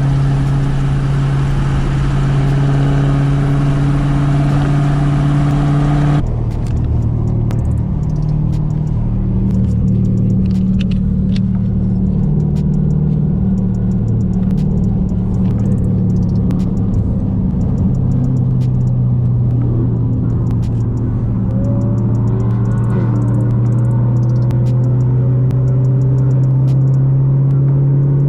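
Supercharged HEMI V8 of a modded Dodge Hellcat running hard under load. The sound changes abruptly about six seconds in, and near the end the engine note climbs in pitch, drops at a gear change and climbs again as the car accelerates.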